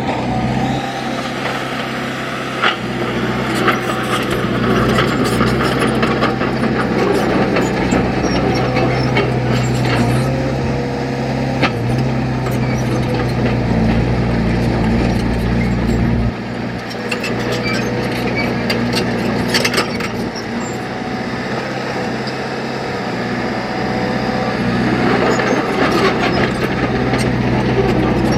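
Heavy diesel engine of earthmoving machinery running steadily, with scattered clanks and knocks over it; the engine note shifts about halfway through.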